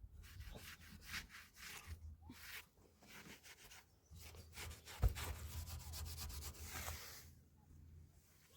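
Faint, irregular rubbing and scraping strokes, with one sharper knock about five seconds in.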